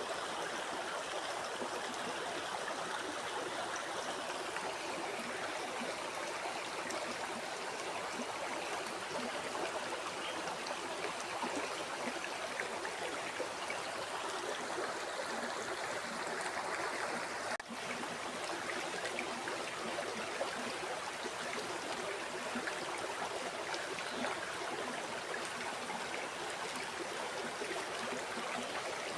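Steady rush of a flowing river, with the level dipping for a split second about two-thirds of the way through.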